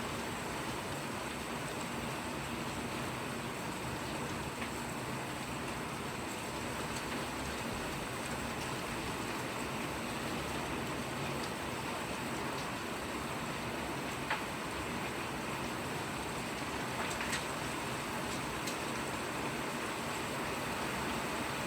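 Steady rain falling, an even hiss, with a few sharp single drip clicks now and then.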